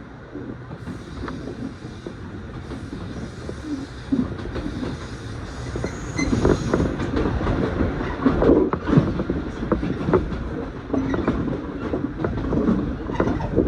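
Train carriage running along the track, heard from inside: a steady rumble with clicks and rattles from the wheels over rail joints. It gets louder and busier about six seconds in.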